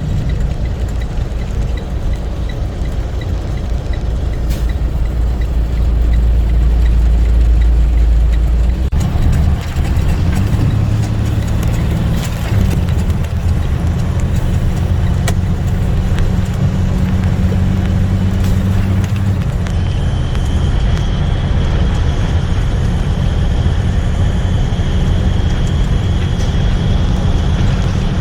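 Box truck driving on the road: a steady low engine drone with road noise, the engine note shifting about nine seconds in. A faint steady high whine comes in about twenty seconds in.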